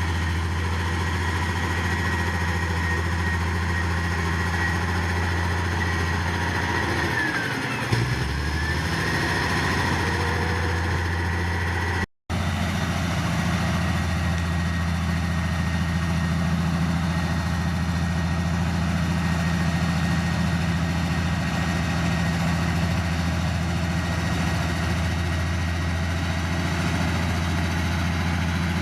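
Heavy diesel engine of earthmoving equipment running steadily, with a short dip and pitch change about eight seconds in and a brief cut-out about twelve seconds in.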